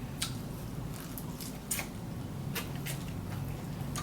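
Eating sounds as instant noodles are chewed and picked up with chopsticks: about six short, sharp mouth and utensil clicks scattered over a low steady hum.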